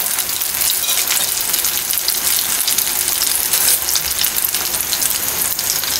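An egg omelette frying in oil in a kadai, giving a steady sizzle with fine crackling throughout.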